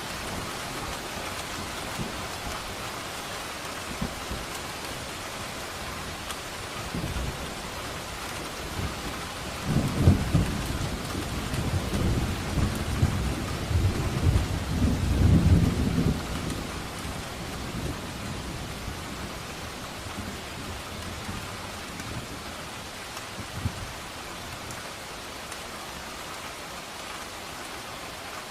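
Steady rain falling, with a roll of thunder rumbling for about six seconds near the middle.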